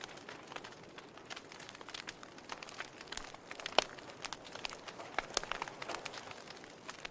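Wood fire crackling in a fireplace: irregular sharp pops and snaps over a soft hiss, with the loudest pop about four seconds in.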